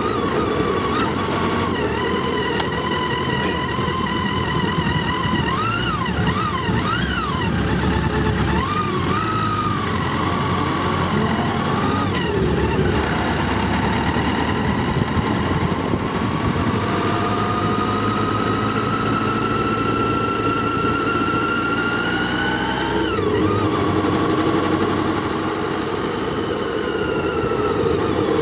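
Motorcycle engines running steadily, with the engine note wavering, then climbing slowly for several seconds and falling away sharply about three-quarters of the way through, as when a bike accelerates and the throttle is rolled off.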